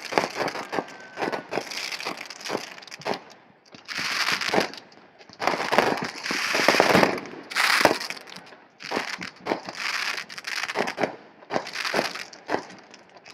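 Fireworks crackling and popping in quick, irregular bursts, swelling into louder stretches of dense hissing crackle about four, six and eight seconds in.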